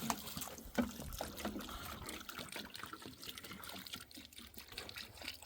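Water trickling, with irregular small splashes and crackles.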